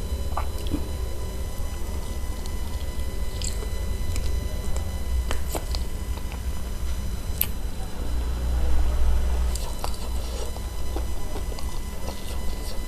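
A person chewing and biting spicy chicken feet close to the microphone: scattered short wet clicks and smacks at an irregular pace, over a steady low hum.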